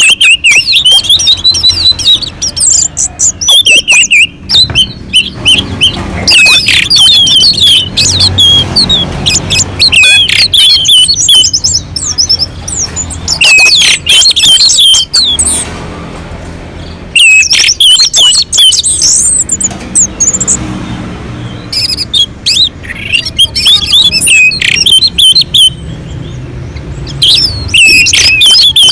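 Orange-headed thrush (anis merah) in full song: long bursts of rapid, varied, high warbling phrases, broken by short pauses about 16 and 21 seconds in.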